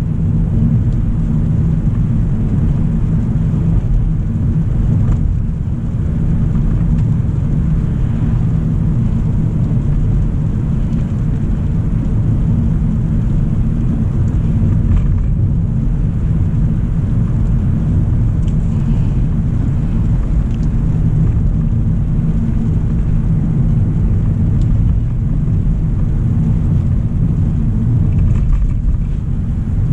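Steady low rumble of a 2025 Hyundai Elantra SEL driving on a wet road, its tyre and engine noise running evenly with no change in pace.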